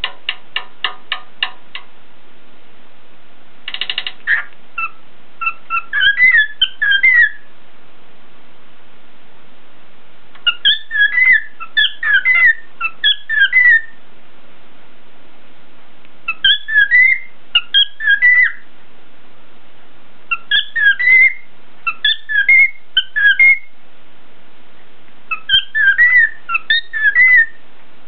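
Cockatiel whistling its tune in repeated phrases of quick chirpy notes, about five phrases with short pauses between them. It opens with a run of quick clicks and a brief buzzy burst.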